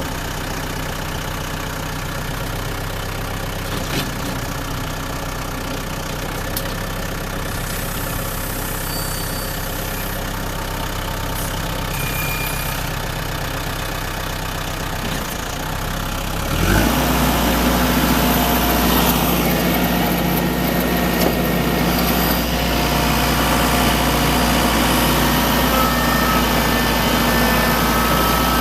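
New Holland TC45D diesel tractor engine idling steadily. About two-thirds of the way through, its speed rises quickly and it runs on at a higher, louder steady throttle.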